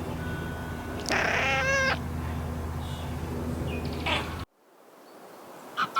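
A cat meowing: one drawn-out, wavering meow about a second in and a short one later, over a steady low hum that cuts off abruptly about two-thirds of the way through.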